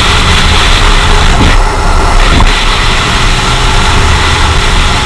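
Motorcycle engine running steadily under a loud, constant rush of wind noise, heard from a camera on the bike.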